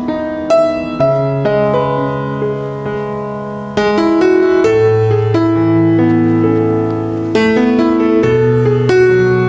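Background music: a slow, gentle piano piece with sustained chords and soft bass notes.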